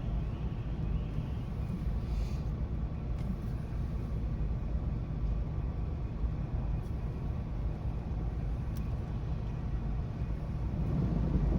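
Steady low rumble of a thunderstorm, with a roll of thunder beginning to swell near the end.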